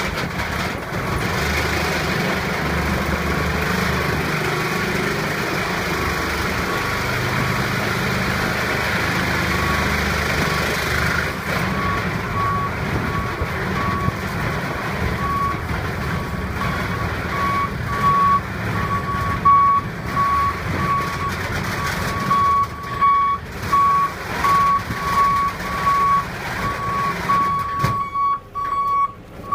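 A vehicle's backup alarm repeating a single beep over a steady rumble and hiss of engine and wind noise. The beeping is patchy at first and becomes steady and louder from about twelve seconds in.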